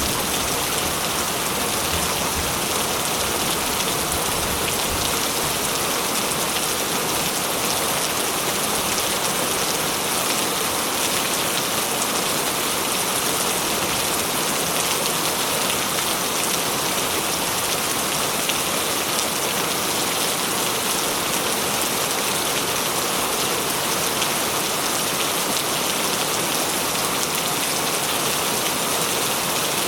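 Steady heavy rain falling and splashing on surfaces, an even hiss of drops with no clear thunder.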